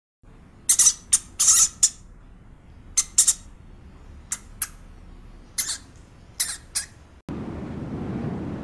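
An animal giving about a dozen short, sharp, high-pitched squawking calls, singly and in quick pairs, with pauses between them. Near the end the sound cuts abruptly to a steady low rumble.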